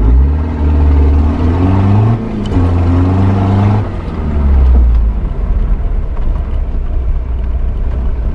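Opel Frontera's 2.3-litre four-cylinder turbo-diesel through a straight-piped exhaust with no catalytic converter. It is revved up hard in three pushes, the note dropping briefly about two and four seconds in, then settles to steadier, lower running after about five seconds.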